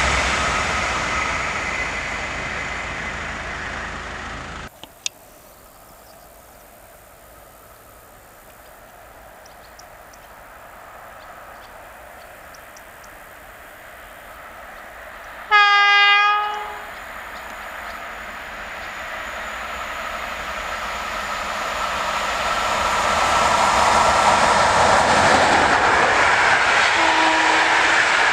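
A Pendolino high-speed electric train passing and fading away. After a quiet stretch, a single loud train horn blast sounds about halfway through. Then a locomotive-hauled passenger train approaches and passes close with loud rail and wheel noise.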